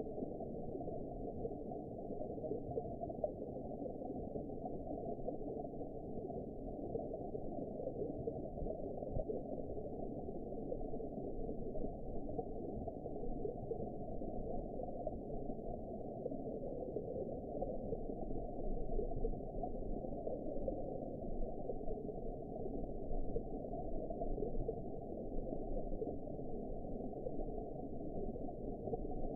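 Steady underwater ambience: an even, muffled wash of low noise with nothing above about 1 kHz and no distinct events.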